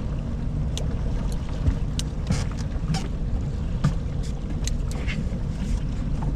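Steady low rumble of wind and water around a small fishing boat, with scattered light clicks and knocks.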